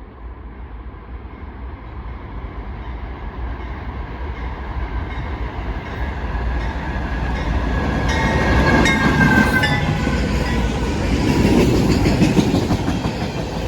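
Norfolk Southern freight train led by a GE AC44C6M diesel locomotive approaching and passing: engine rumble growing steadily louder, loudest about two-thirds of the way through, with wheels clicking over the rail joints.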